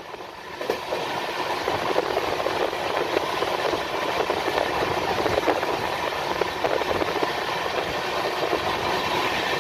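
Passenger train running along the track, heard at an open coach door: a steady rush with a dense, fast rattle of wheels on rails. It gets louder within the first second, then holds steady.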